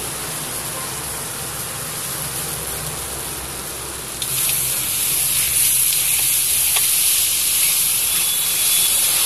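Raw chicken pieces sizzling in hot oil and masala in a steel kadai as they are stirred with a metal spatula. The sizzle jumps suddenly louder and brighter a little after four seconds.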